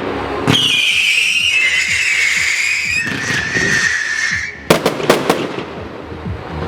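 A consumer firework going off: a long shrill whistle that slowly falls in pitch, starting about half a second in and lasting about four seconds, with a hissing crackle over it. Then a quick series of sharp bangs near the end.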